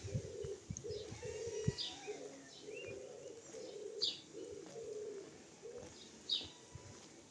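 Pigeons cooing in a steady run of low repeated notes, with a small bird chirping sharply three times about two seconds apart, and a few low knocks near the start.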